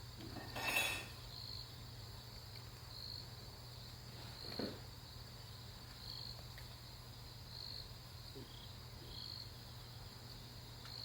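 An insect chirping steadily outdoors: short, high chirps repeating about once a second. A brief rustle comes near the start and a soft knock comes midway.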